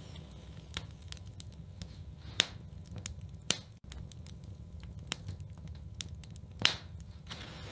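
Wood fire burning in a fireplace, crackling with irregular sharp pops, three of them louder about two and a half, three and a half and nearly seven seconds in, over a steady low rumble.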